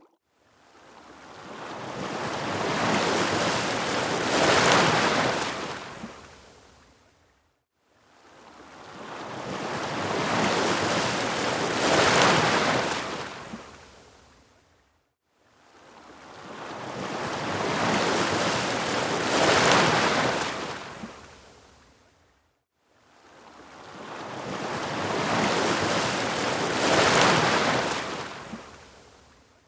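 Ocean waves washing in and drawing back, four even swells that each build up and fade away, with a brief hush between them.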